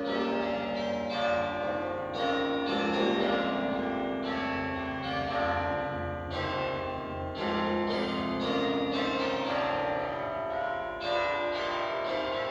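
Bells ringing a run of pitched strikes, several notes sounding over one another as each new one is struck.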